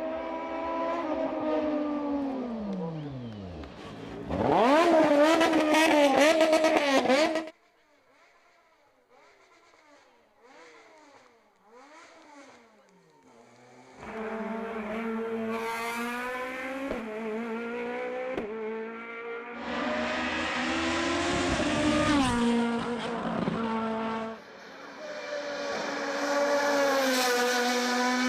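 Hillclimb race cars at full throttle: an engine drops in pitch as a car passes, then engines rev hard and climb through quick gear changes. About seven seconds in, the sound breaks off to a distant car revving up and down. Loud engine sound returns partway through and breaks off again, then resumes.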